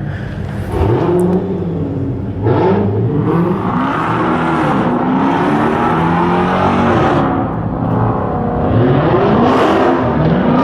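A car engine revving several times, its pitch rising and falling back with each rev.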